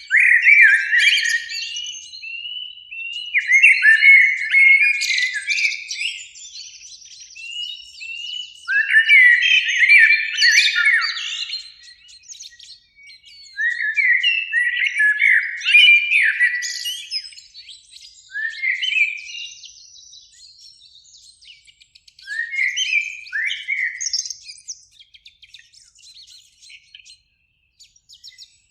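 Common blackbird singing: warbling phrases a few seconds apart, each trailing into higher, thinner twittering. The phrases are softer near the end.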